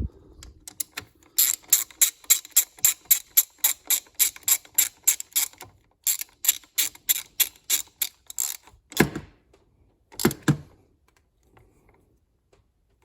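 Hand socket ratchet clicking as a bolt is turned, in two runs of about four clicks a second with a short pause between, followed by two heavier knocks.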